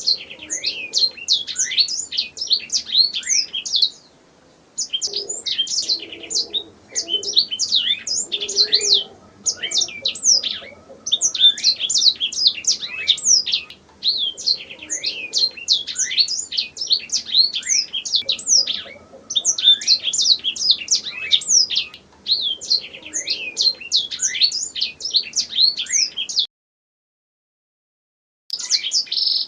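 Domestic canary singing: long, rapid trills of fast sweeping high notes in phrases a few seconds long, separated by brief pauses. The song cuts out completely for about two seconds near the end, then resumes.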